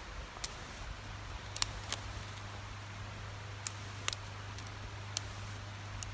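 Small wood fire crackling in a folding camp wood stove, with scattered sharp pops at irregular intervals. A steady low hum runs underneath from about a second in.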